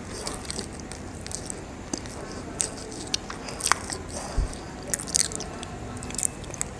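Close-miked chewing of a mouthful of brownie: wet mouth clicks and smacks at irregular intervals, a few sharper ones about halfway through and again later.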